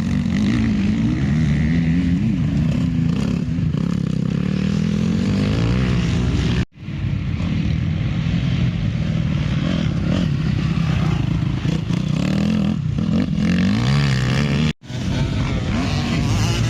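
Motocross bike engines running hard, their pitch climbing and falling as they rev and shift. The sound cuts out abruptly twice for a split second.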